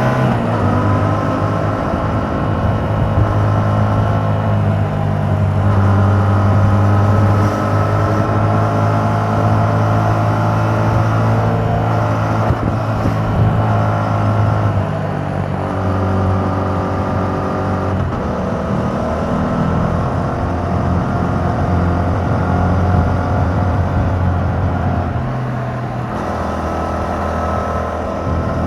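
2021 Yamaha MT-07's 689 cc parallel-twin engine running under way through its stock exhaust with the dB killer removed. The engine note holds steady for stretches and changes pitch several times as the revs and gears change.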